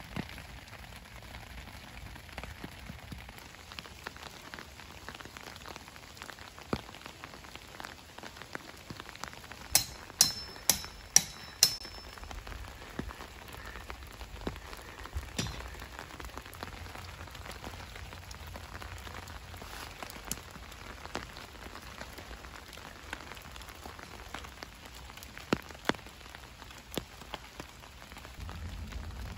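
Steady rain falling, with a quick run of five sharp, ringing hammer strikes about ten seconds in and one more a few seconds later: hammering done to get ready for the rain.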